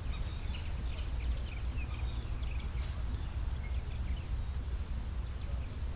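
Many small birds chirping in short, scattered calls over a steady low rumble.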